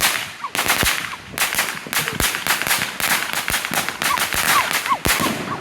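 Consumer fireworks going off all around: about a dozen sharp bangs and cracks in quick, uneven succession, their echoes running into one another.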